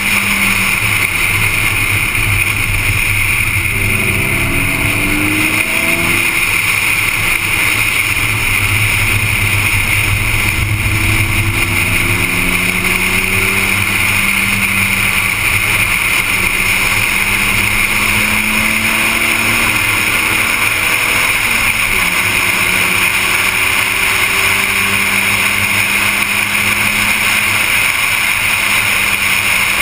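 BMW car engine under way at speed, its note climbing slowly in long pulls, with a cluster of quicker rises and falls in pitch about four to six seconds in. A steady rushing noise runs underneath.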